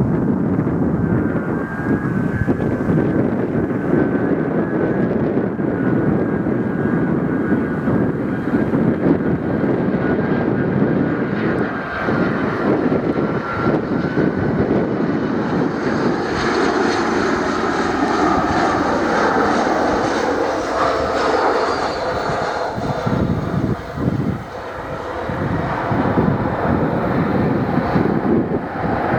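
Airbus A319 airliner's jet engines whining on approach to land: a steady high tone that sinks slightly, then a louder, brighter rush from about halfway as the aircraft passes, with a falling whine. Wind rumbles on the microphone underneath.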